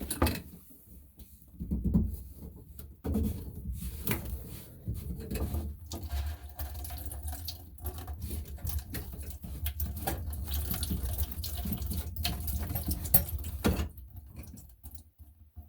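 Water draining and splashing from the sink's drain pipes into a bucket, with sharp knocks and clunks of the drain parts being handled.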